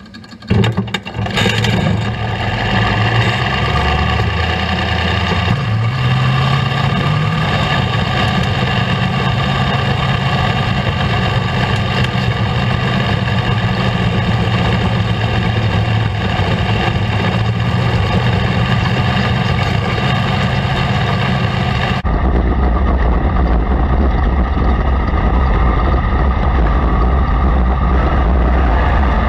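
Sprint car engines running steadily on a dirt track. About twenty-two seconds in, the sound changes abruptly to a deeper, duller tone.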